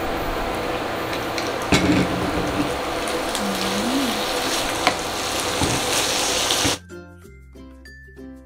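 Chopped milkfish frying in a pan with a steady sizzle, and a few knocks of a wooden spatula as it is stirred. Near the end the sizzle cuts off suddenly and gives way to quieter background music with a regular beat.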